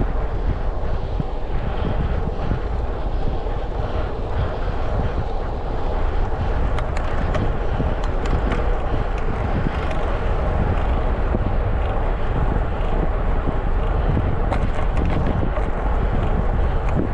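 Wind rushing over a GoPro action camera's microphone while cycling, a steady low rumble with road and tyre noise under it. A scatter of light clicks comes midway and again near the end.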